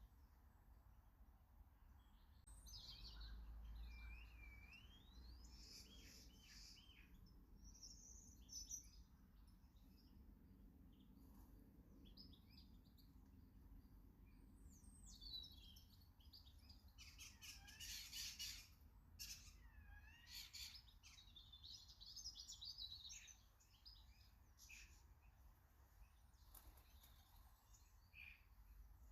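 Faint garden birdsong: small birds chirping, with quick whistled notes that slide up and down. A little past halfway comes a cluster of sharp clicks.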